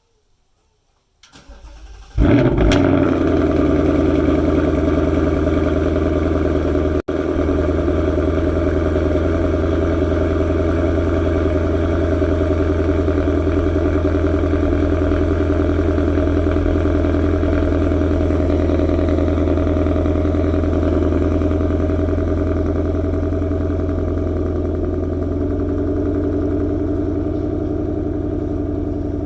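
2018 Mustang GT's 5.0 V8 with a Borla X-pipe, exhaust valves in quiet mode, cold-starting: a brief crank, a loud flare as it catches about two seconds in, then a steady fast cold idle. The idle eases slightly lower over the last few seconds as it settles.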